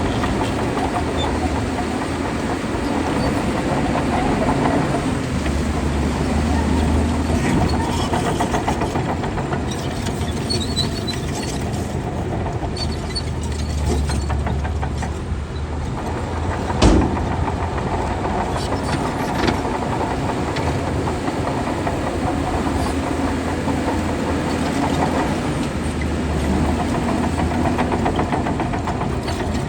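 Heavy diesel engine of a working bulldozer, its low rumble swelling and easing several times as it pushes soil. One sharp clank about seventeen seconds in, with light clicking and rattling throughout.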